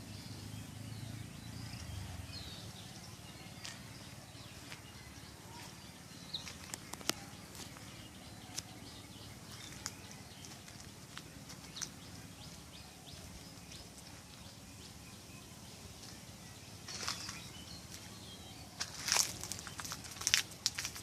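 Outdoor ambience: a faint steady background noise with scattered short clicks, and a denser run of louder clicks and knocks near the end.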